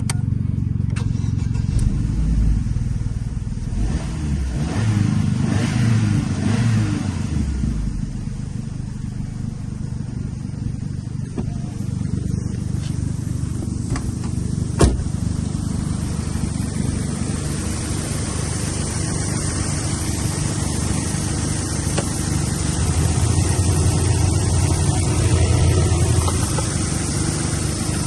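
Opel Astra H's 1.6-litre Z16XER four-cylinder petrol engine running, with the revs rising and falling a few times about five seconds in and a sharp click near the middle. It gets a little louder again near the end.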